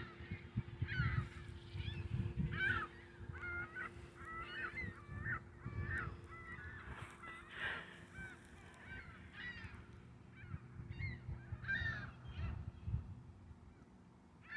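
A flock of gulls calling, many short cries overlapping one another throughout, over a low rumble and a faint steady hum.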